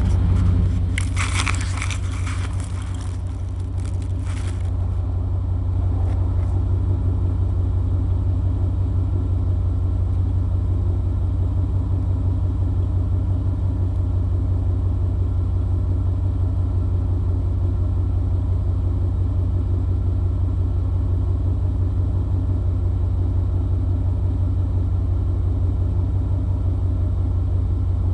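1995 Chevy C-2500's 5.7 L (350) small-block V8 with throttle-body injection idling steadily at the exhaust, a low, even rumble. Rustling noise over the first few seconds.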